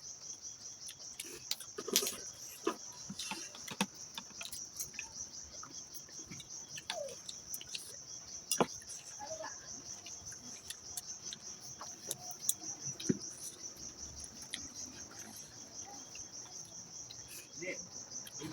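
Crickets chirring steadily in the background, with scattered short clicks and smacks of eating close to the microphone, a few louder ticks among them.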